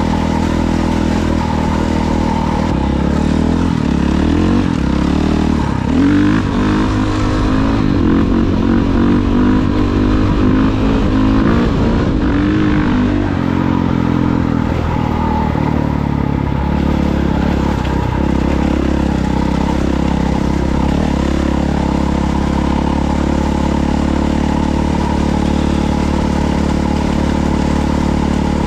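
Off-road vehicle engine running as it is ridden, revving up and down for the first half, then holding a steadier pitch.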